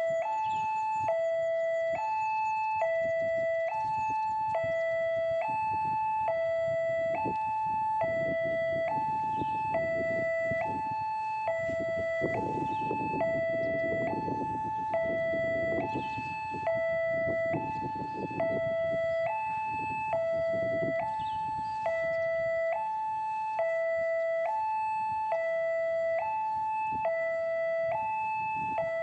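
Railway level-crossing warning alarm sounding continuously: an electronic two-tone signal alternating between a lower and a higher note, each held just under a second, warning that a train is approaching. A low rumble swells under it through the middle of the stretch and fades again.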